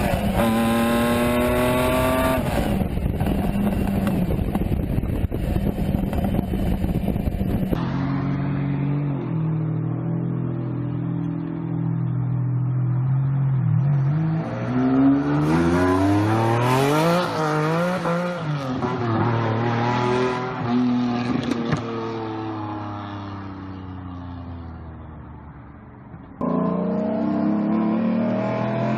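Lamborghini Diablo V12 engine in a run of edited clips. It opens accelerating with the pitch climbing, then goes through a rougher, noisier stretch and steady running. Midway a car goes past with the pitch rising and then falling, fades away, and near the end it cuts suddenly back to the engine running loudly.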